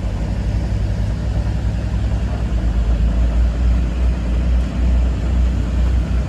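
Motorboat engine running under way with a steady low rumble.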